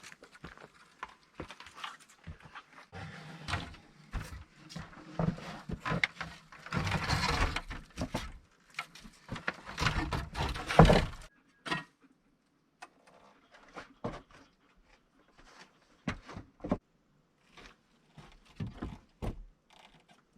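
Irregular knocks and thuds of objects being handled, with two stretches of scraping, each a second or two long, in the first half, and sparser single knocks later.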